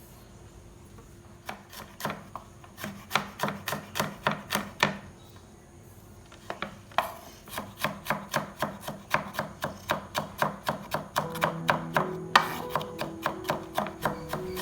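Knife chopping vegetables on a cutting board in quick, even strokes, in two runs with a pause of about two seconds in the middle.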